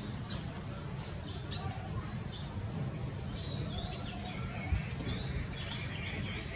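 Small birds chirping in the background: short high calls and little gliding notes, one or two a second, over a steady low rumble.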